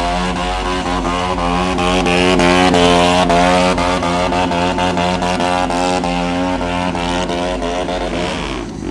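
Stunt motorcycle engine held at high, steady revs, its pitch wavering slightly, then the revs fall away near the end.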